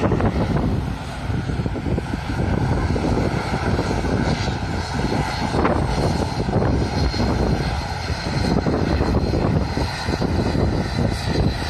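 Airliner engines running loud and steady, with a faint whine over a deep rumble, and gusty wind buffeting the microphone.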